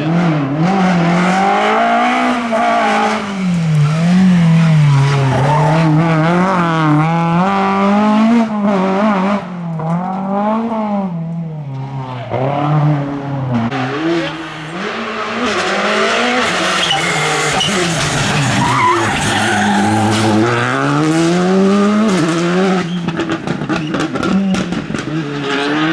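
Rally cars at full racing pace, engines revving high and dropping repeatedly through gear changes and braking, with tyres squealing.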